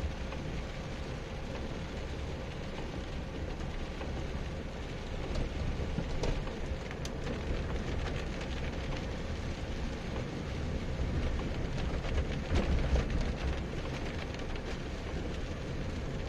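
Rain pattering on a car's roof and windscreen, heard from inside the moving car, over a steady low rumble of engine and tyres on a wet road.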